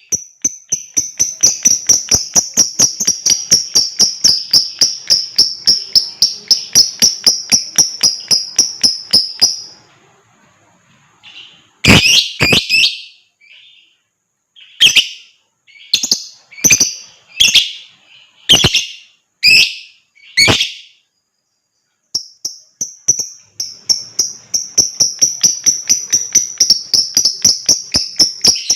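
Lovebird 'ngekek': a long, fast chattering trill of high repeated notes, about six or seven a second, that breaks off after about ten seconds. After a short pause come about nine single harsh chirps, then the fast trill starts again a few seconds before the end.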